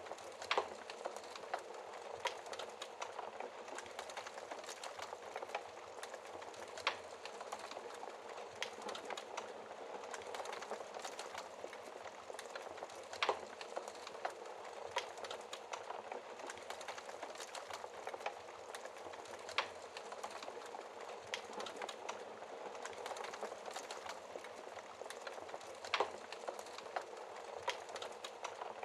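Wood fire crackling in a fireplace: a dense, steady stream of small crackles over the soft rush of the flames, with a louder, sharper pop about every six seconds.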